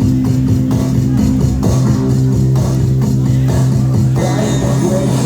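Live rock band playing loudly, with guitars and bass holding long, sustained low notes, recorded on a phone in the crowd.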